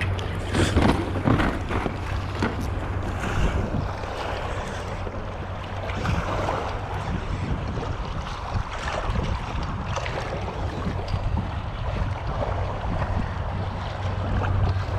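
Water lapping and splashing against a kayak, with wind buffeting the microphone; the splashes are strongest in the first few seconds.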